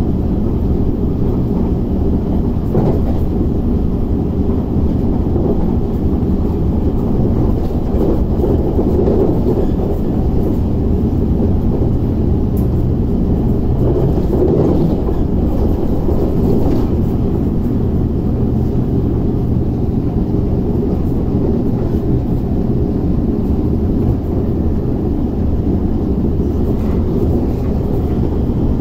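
Steady running noise heard inside an MTR SP1900 (IKK) electric multiple unit under way: a low, even rumble of wheels on rails.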